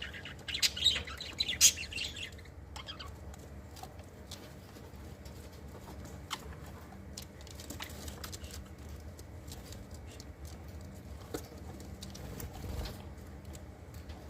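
Small pet birds chirping in a quick burst during the first two seconds, then wings fluttering with scattered light clicks over a low steady hum.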